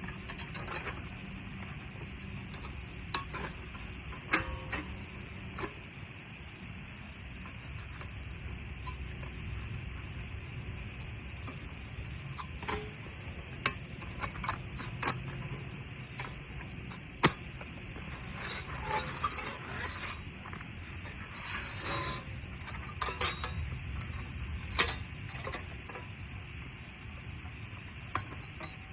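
Autumn crickets trilling in a steady, continuous high-pitched chorus. Scattered sharp clicks and knocks sound over it, a few louder than the rest.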